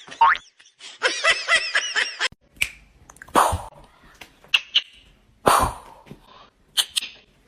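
A wobbling cartoon boing sound effect for the first two seconds, then three short, sharp bursts from a pet about two seconds apart.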